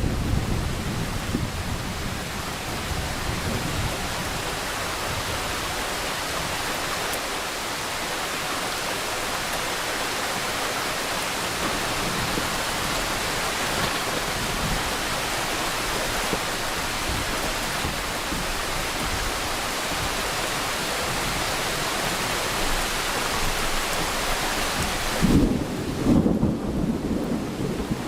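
Steady rain falling in a thunderstorm. A low rumble of thunder swells near the end.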